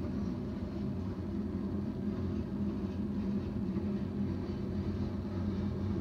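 A train passing, heard as a steady low rumble with a low droning hum that holds even throughout.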